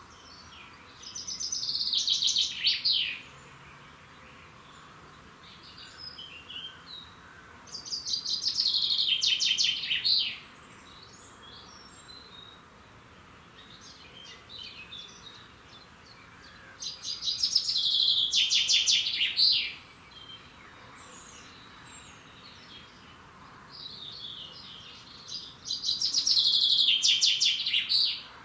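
A songbird singing the same fast, trilled song phrase four times, each about two seconds long and roughly eight seconds apart, with faint chirps from other birds in between.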